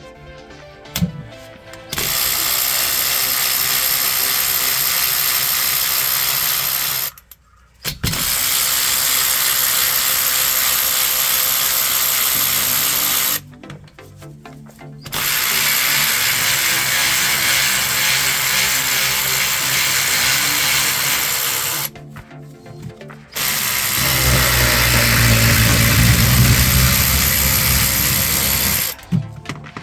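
Power drill-driver running in four long steady runs of several seconds each, spinning out the E12 Torx bolts that hold the transfer case actuator; the last run is louder, with more low rumble.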